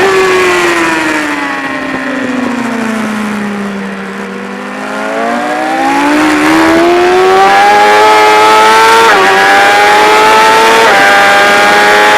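BMW S1000RR's inline-four engine heard onboard. Its pitch falls for the first few seconds as the revs drop into a corner, bottoms out about four to five seconds in, then rises steadily as the throttle opens. Two brief dips in pitch, about nine and eleven seconds in, are quick upshifts.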